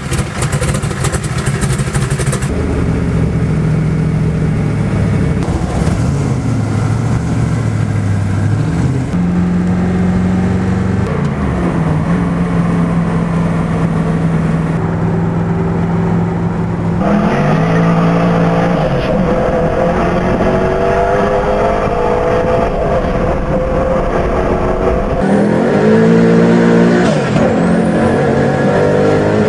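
Mosler MT900's 427-cubic-inch (7-litre) LSX V8 driven hard. The engine pitch climbs and falls back several times as it accelerates through the gears, most plainly after the middle and near the end. The sound changes abruptly at a few edit cuts.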